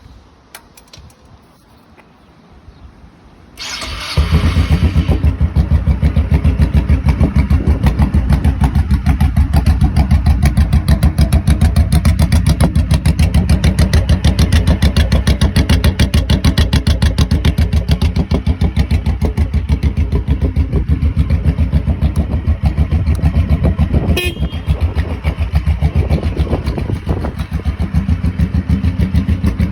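Motorcycle engine starting a few seconds in, then idling loudly with a steady, even pulsing beat. A short high-pitched chirp cuts in about three-quarters of the way through.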